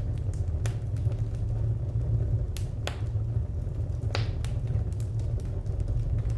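Wood fire crackling: a steady low rumble of burning under scattered sharp pops and snaps, a few louder ones in the middle.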